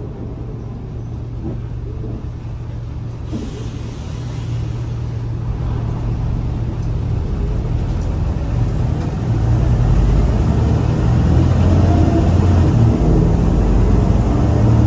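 Scania L94UA city bus engine running under way, a steady low drone that builds up and grows louder about four seconds in and again about nine seconds in as the bus accelerates.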